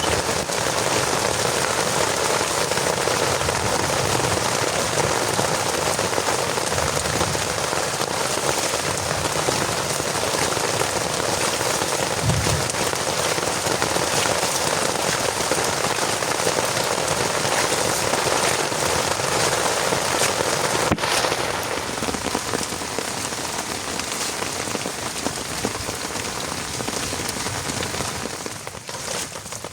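Heavy rain falling steadily, with a brief low thud partway through. About two-thirds of the way in, the rain becomes a little quieter.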